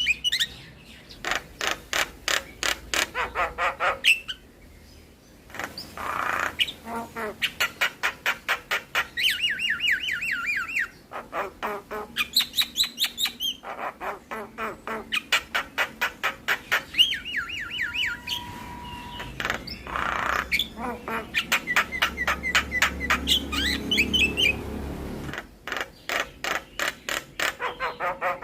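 Javan myna (jalak kebo) singing a long, varied song: runs of rapid repeated chattering notes, wavering trills and a brief steady whistle, broken by short pauses. It is the full 'isian' song, full of imitated calls.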